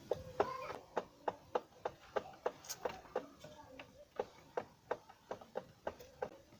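A steady series of sharp taps or clicks, about three a second.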